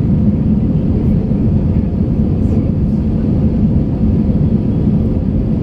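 Steady roar of an Airbus A321's engines and airflow heard inside the cabin during the climb-out of a go-around, with a faint steady hum above it.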